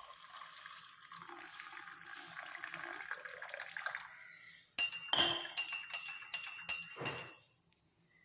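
Liquid pouring or running for about four seconds, then a run of sharp clinks of dishes knocking together, some with a ringing tone.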